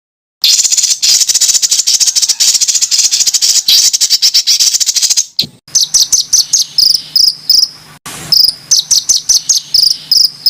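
Recorded songbird song: starting about half a second in, a loud, very fast high-pitched trill, then from about halfway a run of sharp, high notes rapidly repeated in short bursts.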